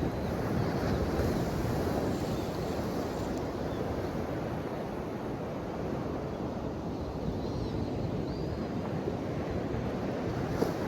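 Ocean waves washing steadily on the shore, rising and falling gently in loudness, with a single short click near the end.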